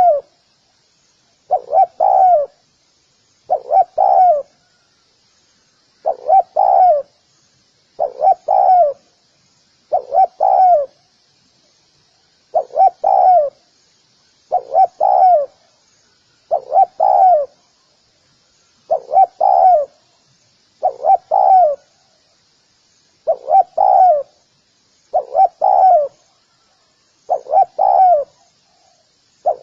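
Spotted dove calling over and over, each call a short run of two or three quick coos, repeated about every two seconds.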